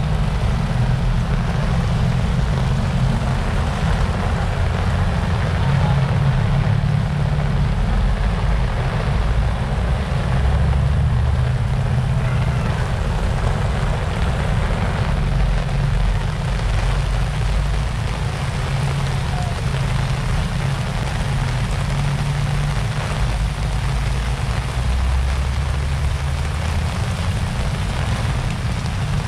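Heavy typhoon rain pouring steadily onto a flooded street, with a constant low rumble underneath.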